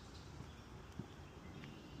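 A footstep knocking once on a wooden boardwalk about halfway through, over a faint low outdoor rumble, with a brief bird chirp near the end.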